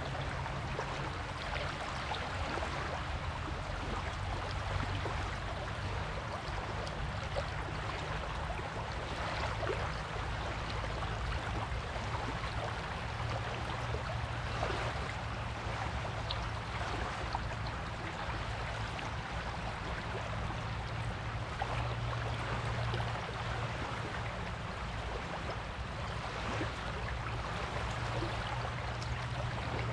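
Surf washing on a beach: a steady rush of water with a fine fizzing crackle of foam and shallow water, no single wave standing out, over a low steady hum.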